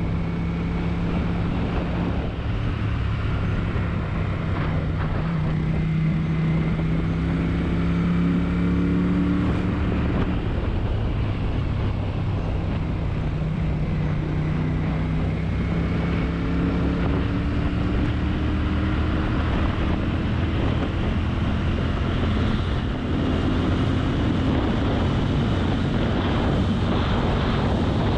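Honda CX500's liquid-cooled V-twin engine running under way on the road, its pitch climbing gradually a few times as it pulls. Wind rush on the microphone runs underneath.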